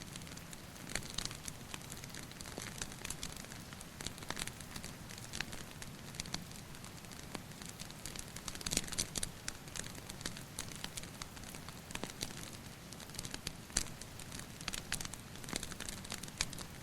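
Wood fire crackling, with irregular sharp pops and snaps that come in quick clusters about nine seconds in and again near fourteen seconds, over a steady hiss of rain dripping.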